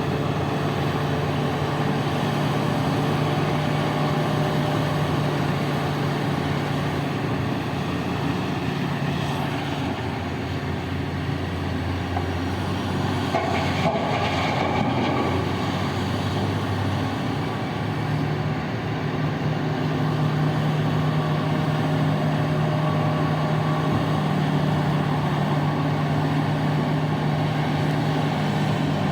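Heavy mining machinery running: the large diesel engines of a Caterpillar 994 loader and BelAZ haul trucks at a steady drone, the engine note easing for several seconds mid-way, with a brief rush of noise about halfway through.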